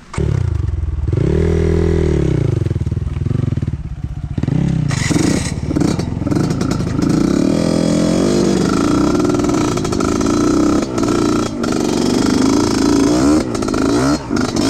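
Trail motorcycle engine running loud, coming in suddenly and revving up and down again and again, with a few clattering knocks.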